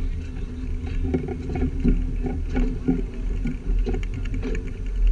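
Train rolling on the rails: a steady low rumble with irregular clanks and rattles from the cars.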